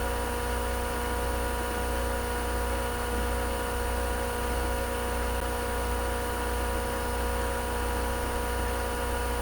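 Steady mechanical hum: a low drone with several held tones above it, unchanging throughout, with no knocks or tool clinks.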